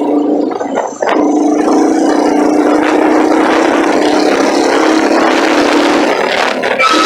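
An engine running steadily with a constant drone, dipping briefly about a second in and again near the end.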